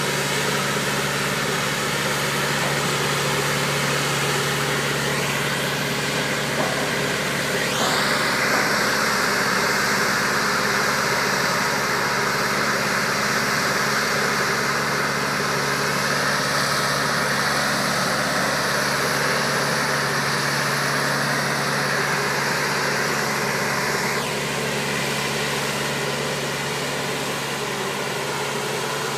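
Engine of a boat gantry running steadily at a constant low hum. About a quarter of the way in, a louder hissing noise starts; it holds steady, then cuts off about two-thirds of the way through while the engine runs on.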